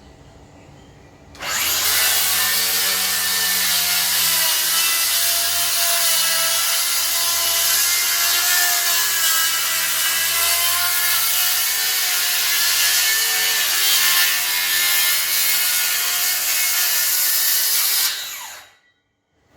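DeWalt DCS578 cordless circular saw starting about a second and a half in and cutting through wood for about sixteen seconds, its pitch wavering under the load of the cut. It stops quickly near the end.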